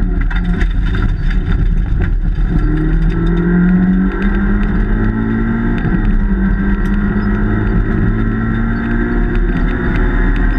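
Peugeot 106 S16 Group A rally car's 1.6-litre sixteen-valve four-cylinder engine running hard, heard from inside the cabin. Its note drops briefly about two seconds in and again about four seconds in, then climbs in pitch after each drop.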